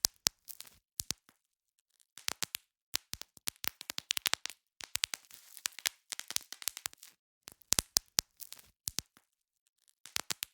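Bubble wrap being popped: quick runs of sharp snaps, several bubbles bursting in close succession, then short pauses, most of all a quiet gap of about a second near the start and another near the end.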